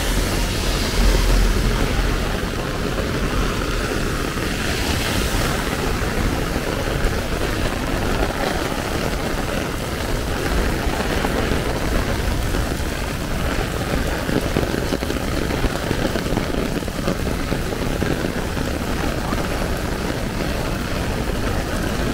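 Heavy rain falling on an umbrella overhead and on the street, a steady hiss, with city traffic running underneath; a louder low rumble passes about a second in.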